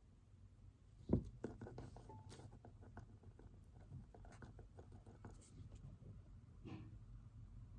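Pen writing on paper: faint scratchy strokes and small clicks, after a single knock about a second in.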